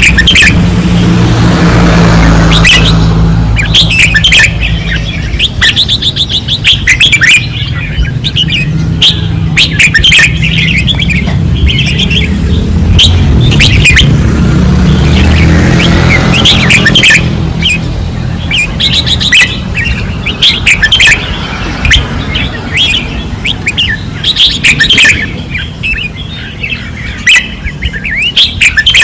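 Red-whiskered bulbuls singing hard, with quick, overlapping chirping phrases throughout, over a steady low rumble that eases off about halfway through.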